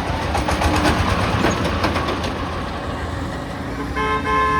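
A vehicle horn sounds once near the end, a brief pitched toot, over the steady low rumble of heavy vehicle engines. A run of rapid knocks and rattles comes in the first two seconds.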